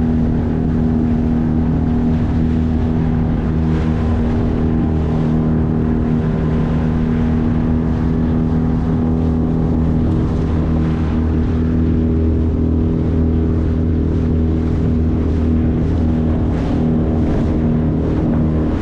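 A 9.8 horsepower outboard motor running steadily at full throttle, pushing a small boat at about 15 mph, with water rushing past the hull.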